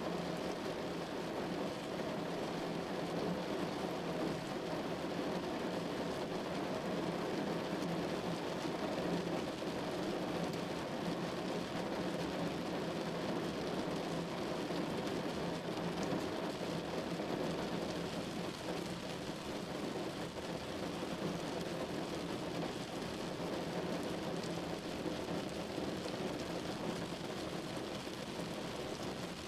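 Rain falling steadily on a window: an even, unbroken wash of rain noise with no distinct drops or thunderclaps standing out.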